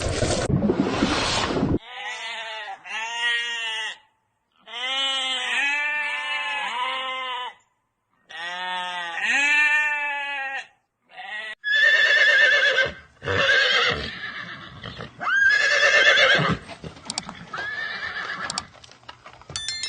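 A short rush of noise, then a string of short animal calls that rise and fall in pitch, followed by horses whinnying with a quavering pitch.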